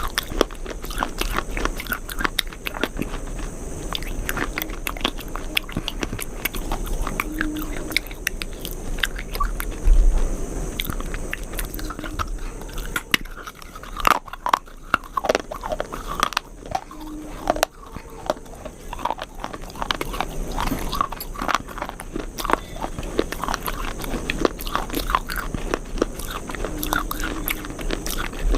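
Close-up crunchy chewing and biting: a steady, irregular stream of crisp crunches and crackles from a mouth working through something brittle, with one louder bump about ten seconds in.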